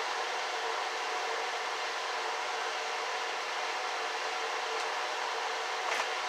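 Steady whirring hiss with a faint hum, like a fan or appliance blower running, unchanged throughout; a light tick near the end.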